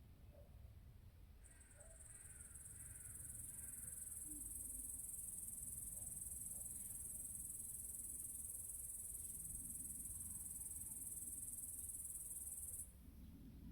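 A steady, high-pitched insect trill like crickets, starting about a second and a half in and cutting off suddenly near the end.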